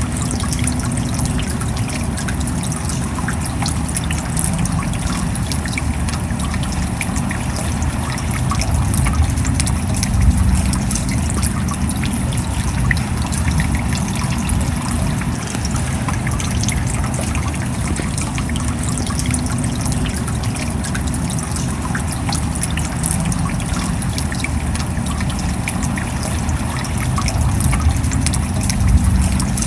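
Steady rain falling, a dense patter of many drop impacts over a constant low rumble.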